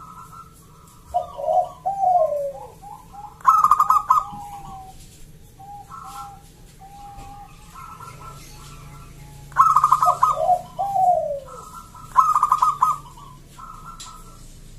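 Zebra dove (perkutut) cooing: phrases of quick, trilled coo notes repeated every few seconds, some followed by lower, falling coos.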